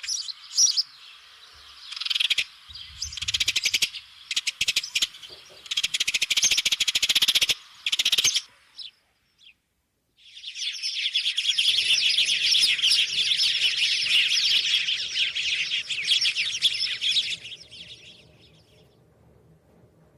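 Small birds chirping in bursts, then a long stretch of dense, continuous chirping.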